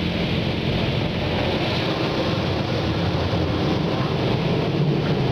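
Automatic car wash working over the car, heard from inside the cabin: a steady rushing noise that holds at one level throughout.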